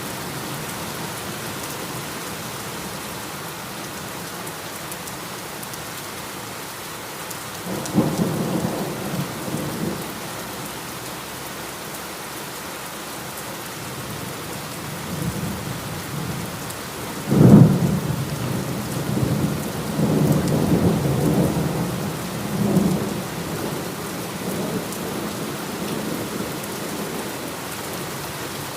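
Steady heavy rain falling, with rolling thunder: a low rumble about 8 seconds in, then a loud clap near the middle that rumbles on for several seconds.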